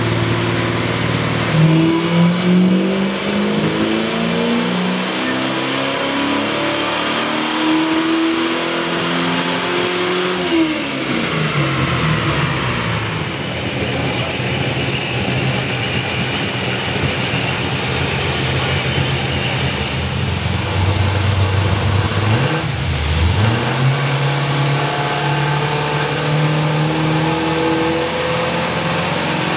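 Classic Chevrolet Camaro V8 engines making wide-open-throttle pulls on a chassis dynamometer. The engine pitch climbs steadily for about nine seconds to high rpm, then drops away as the throttle is lifted. Later another engine idles, blips briefly, and begins to climb again near the end.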